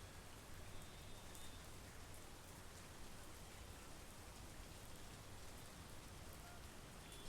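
Soft, steady monsoon rain: an even hiss with scattered faint drop ticks.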